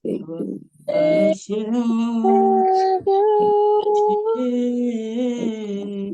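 Female voices singing a slow worship song in harmony, holding long notes that change pitch in steps.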